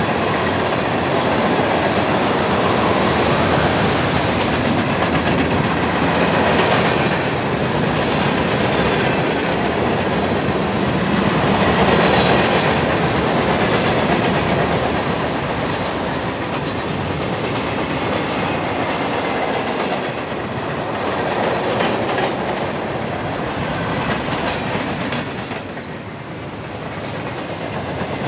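Freight train rolling past, its cars' wheels clacking over the rail joints in a steady, loud rumble.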